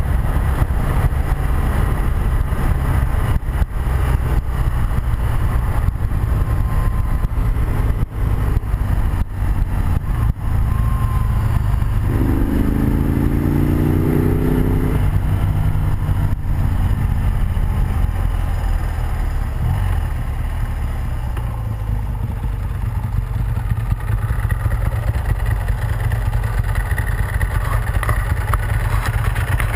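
Riding a BMW R100RS, its air-cooled boxer twin running under a steady low wind rush over the chest-mounted microphone. About twelve seconds in, an engine climbs in pitch for around three seconds as it accelerates.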